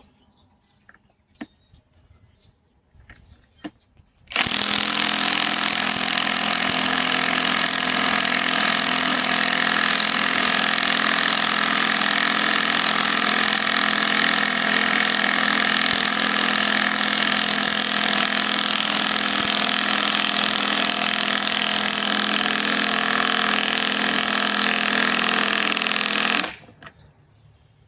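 Cordless compact impact wrench, a Hercules gen 2, hammering steadily as it drives a large lag bolt into wood. It starts suddenly a few seconds in, runs without a break for about twenty seconds, and stops abruptly near the end.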